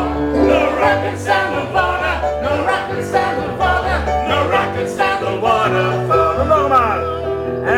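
Live music: voices singing a song over instrumental accompaniment with a steady bass.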